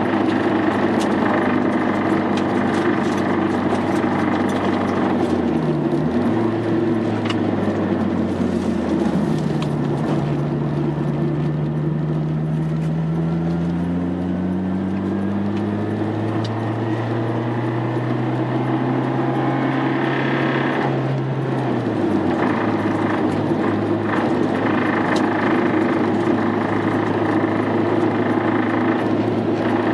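Car engine running with a steady drone. Its pitch dips about six seconds in, then rises slowly over the next quarter minute before settling back.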